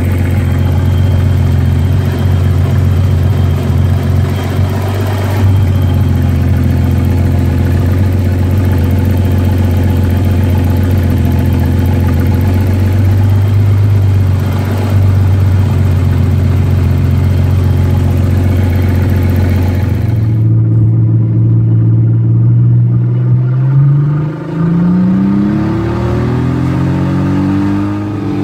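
Turbocharged BMW E23 straight-six running steadily. About twenty seconds in the sound turns duller, as heard from inside the car. Near the end the engine pitch rises in sweeps as it accelerates.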